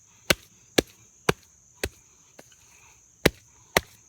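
A stick striking wet dirt over and over to pack it: sharp, short whacks about every half second, a pause of about a second, then two more.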